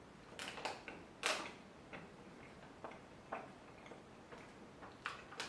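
Biting into and chewing a chocolate-chip protein cookie: a scattering of short, sharp mouth clicks and crunches, the loudest about a second in.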